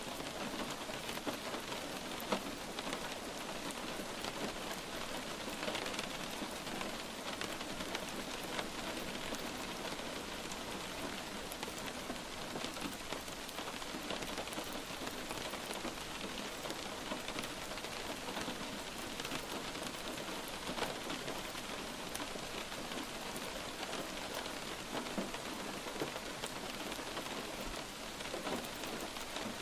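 Steady light rain falling on a surface, an even patter of many individual drops tapping.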